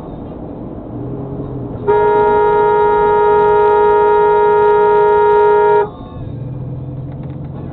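Car horn blown and held steadily for about four seconds, over the constant road and engine noise of a moving car.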